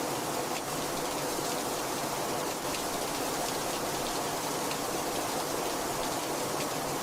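Steady heavy rainfall, an even hiss with faint individual drop ticks scattered through it.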